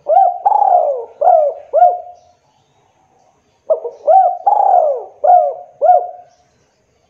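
Spotted dove cooing: two phrases of its low, repeated coos, each a string of about five notes, the second starting about three and a half seconds after the first.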